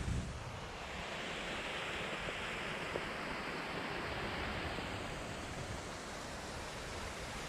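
Waterfall rushing: a steady hiss of falling water that grows fuller about a second in, with low rumbling from wind on the microphone and a brief low thump right at the start.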